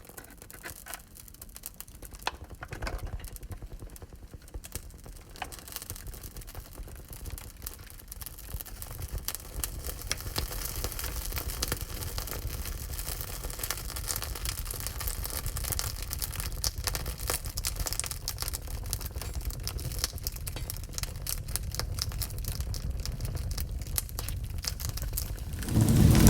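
Wood fire crackling in a wood-burning stove: many small pops and snaps over a low rumble, sparse at first and growing denser and louder after about eight seconds.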